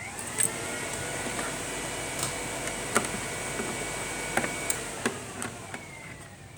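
A small electric motor on the truck whirs up to a steady whine as the key is switched on. It runs for about four and a half seconds, then winds down slowly. A few sharp clicks sound along the way.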